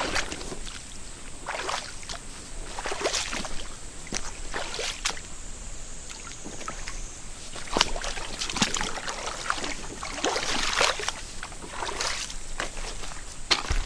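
Footsteps moving through the shallows of a small mountain stream, irregular swishing, sloshing steps about once a second over the stream's steady flow.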